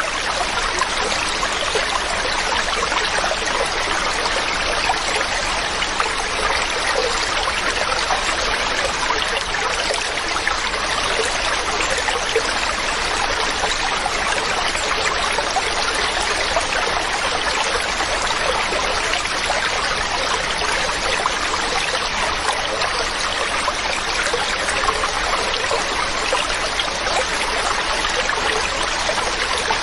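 Mountain stream running over rocks, a steady rushing and babbling of water.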